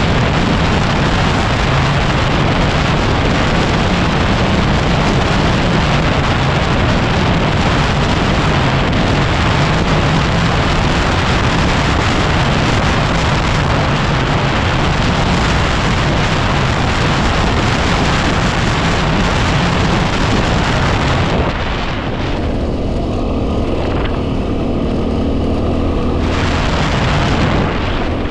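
Heavy wind noise battering the microphone over a Yamaha WR250R's single-cylinder four-stroke engine running at road speed. About 21 seconds in the wind eases and the engine's low hum comes through more clearly.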